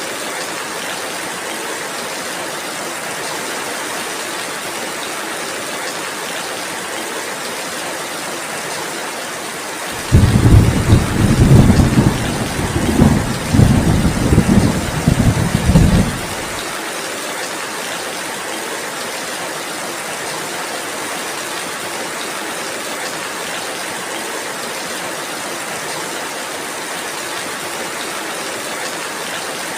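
Steady rainfall hissing. About ten seconds in, a loud low roll of thunder rumbles in several waves for some six seconds, louder than the rain, then dies away.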